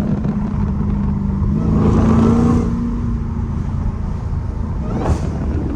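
Straight-piped Dodge Challenger Hellcat's supercharged V8 exhaust while driving: a steady low rumble that swells briefly with a little more throttle about two seconds in, then settles back.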